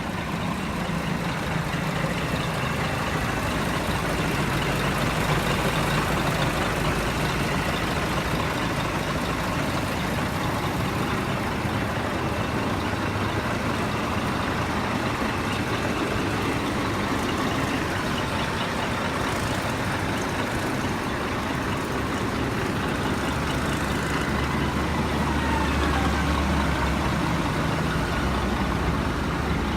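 Scania R420 truck's diesel engine running steadily.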